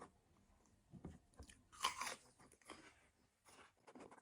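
A person chewing and biting food close to the microphone: a few short, crisp mouth sounds, the loudest about two seconds in.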